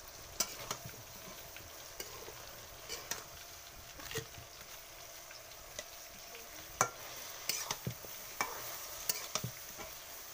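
Chicken and mushrooms sizzling steadily in a kadai while being stir-fried with a steel ladle, which scrapes and knocks against the pan about once a second.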